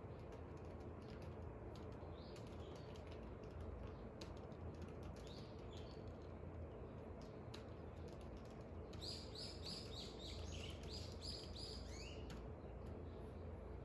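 Small birds chirping outside: a few single chirps, then a quick run of about a dozen high chirps about nine seconds in. Faint scattered clicks like keyboard typing run underneath, over a steady low background hum.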